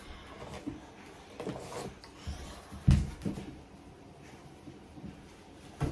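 Handling noise: a few scattered knocks and thumps of objects being moved about, the loudest about three seconds in.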